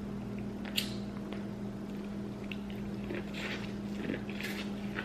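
A person eating close to the microphone: a few soft, wet mouth smacks and clicks between bites, over a steady low hum.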